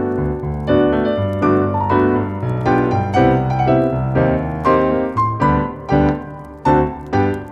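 Solo piano playing a slow, soft piece in steady repeated chords, about one to two a second.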